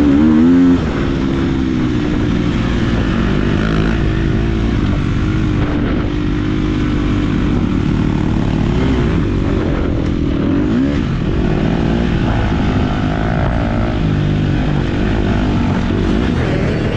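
KTM 250 SX-F four-stroke motocross bike engine heard on board while riding, its pitch rising and falling with the throttle. It revs up sharply right at the start and again about nine and eleven seconds in.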